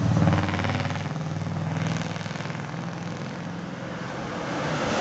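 A truck's engine running as it drives past, loudest in the first second and fading away over the next few seconds.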